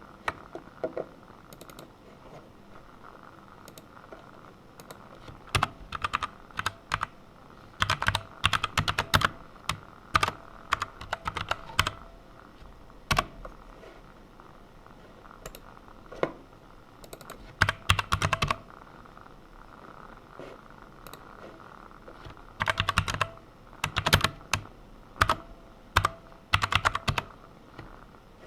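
Typing on a computer keyboard in quick bursts of key clicks separated by short pauses, as code is written.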